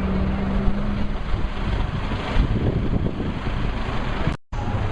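MBB/Kawasaki BK 117 helicopter's turbine engines and rotors running at a hover, a loud, steady, dense noise strongest in the low end. The sound drops out for a split second near the end.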